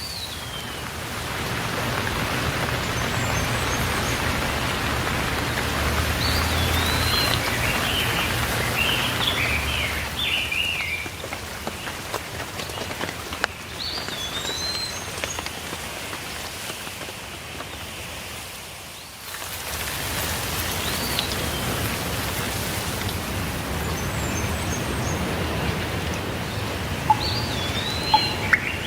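Steady rainfall, with small birds chirping in short, scattered phrases over it. The rain fades briefly about two-thirds of the way through, then comes back.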